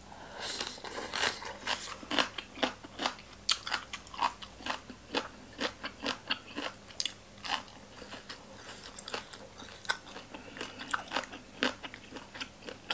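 A woman chewing a mouthful of crunchy green papaya salad close to the microphone: a steady run of wet, crisp crunches, about two a second.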